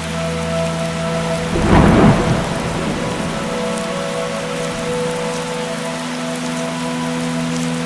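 Steady rain falling, with a single clap of thunder about two seconds in that peaks briefly and then rumbles off into the rain.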